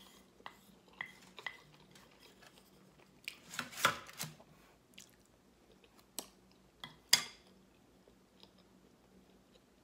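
Close-miked chewing of a mouthful of macaroni and cheese, with a wooden spoon scraping and clacking against a plate. A cluster of louder scrapes comes about four seconds in, and sharp clacks at about six and seven seconds, the loudest as the spoon is laid down on the plate.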